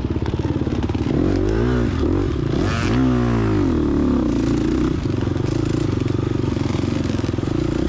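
Gas Gas EX250F dirt bike's four-stroke single-cylinder engine running under load, revved up and back down twice between about one and three seconds in, then holding steady.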